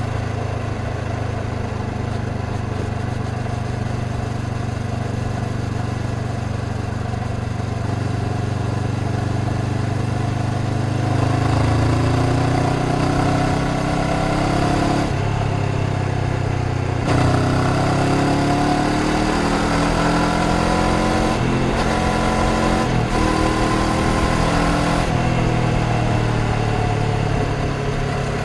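Honda CBR500R's parallel-twin engine holding steady low revs, then pulling away: its note rises again and again, each rise broken by a sudden drop at a gear change.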